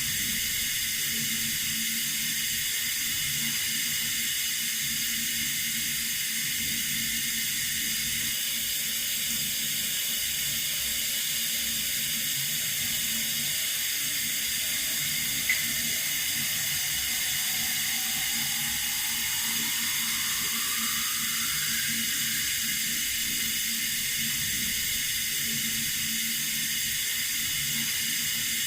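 Running water with a steady, even hiss, and one brief click about halfway through.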